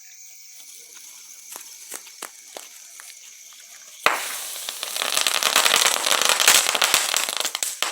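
A small hand firework going off: a dense run of rapid crackling pops starts suddenly about four seconds in and lasts about four seconds. Before it there are only faint, scattered crackles over a steady chirring of insects.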